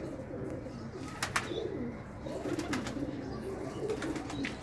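Domestic pigeons cooing, a continual wavering low murmur of calls, with a few sharp clicks about a second in, near the middle and near the end.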